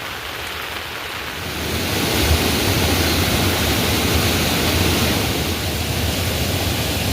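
Heavy rain falling: a steady hiss that grows louder and fuller about two seconds in.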